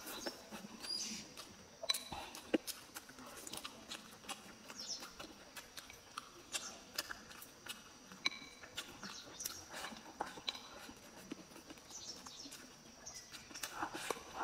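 Close-miked chewing and lip-smacking while eating rice and stir-fried preserved vegetables, with irregular soft clicks from chopsticks and mouth.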